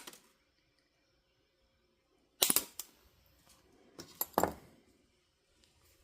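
Wire cutters snipping the tinned ends of a hair dryer's power-cord wires short: sharp snaps, a pair about two and a half seconds in and another pair about four seconds in.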